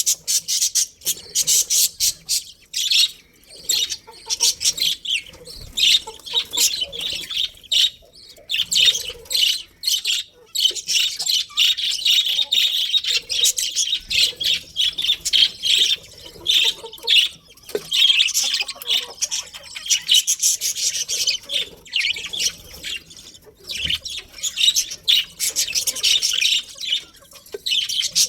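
Several budgerigars chirping and chattering, a dense run of quick, high chirps and warbles with little pause.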